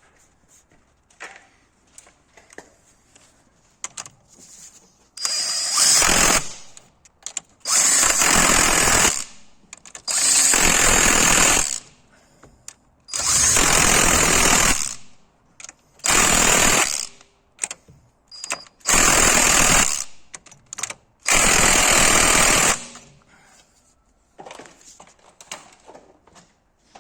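A power tool run in seven short bursts of one to two seconds each, with brief pauses between them, during work on the alternator pulley.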